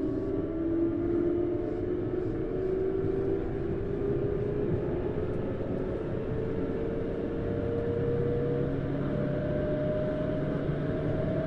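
Tokyu Series 9000 electric train heard from inside a motor car: wheels rumbling on the rail, with steady tones from the traction motors and Hitachi GTO-VVVF drive slowly rising in pitch as the train picks up speed. A lower hum joins about two thirds of the way through.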